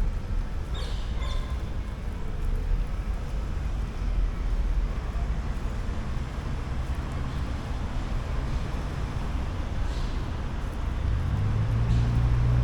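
City street traffic: a steady low rumble of passing vehicles. Near the end a nearby vehicle's engine hum grows louder.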